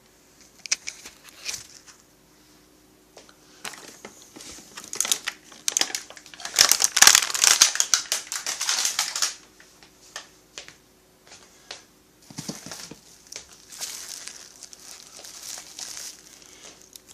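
Plastic packaging crinkling and rustling as parts are unwrapped by hand, in irregular bursts that are loudest for a few seconds in the middle.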